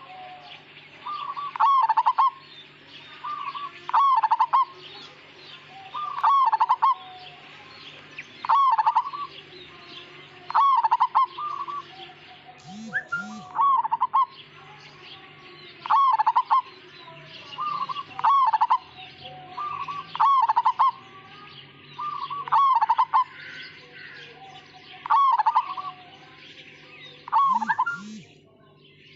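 Zebra dove (perkutut) of the Majapahit strain singing: a short phrase of clipped, bending coos, repeated about every two seconds.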